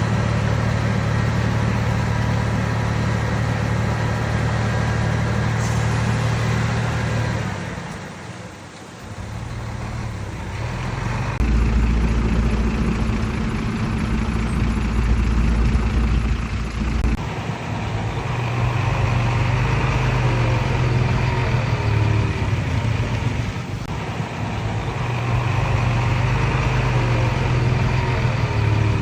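Heavy diesel earthmoving machinery running steadily. The sound dips briefly about a third of the way in, then comes back with a deeper, louder engine note for several seconds, and changes level again after that.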